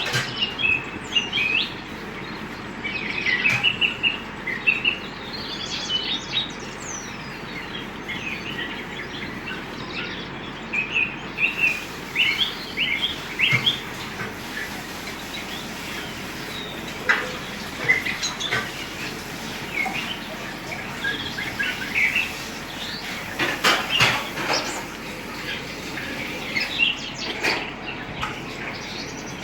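Birds chirping and calling: many short, high chirps coming irregularly, sometimes in quick clusters, over a steady background hiss.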